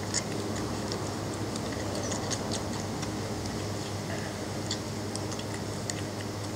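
Belgian Malinois puppies suckling at their mother, making small irregular smacking clicks, over a steady low hum.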